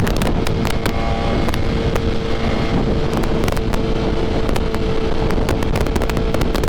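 BMW S1000RR sport bike's inline-four engine, fitted with an SC Projects CRT aftermarket exhaust, running at a steady cruise with its note holding one pitch, mixed with wind rushing over the microphone.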